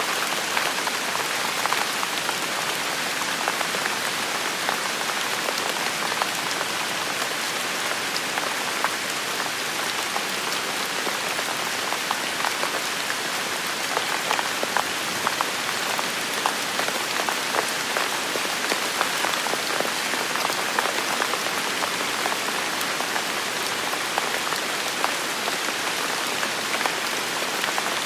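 Steady rain falling on a surface: an even hiss dotted throughout with the ticks of individual drops.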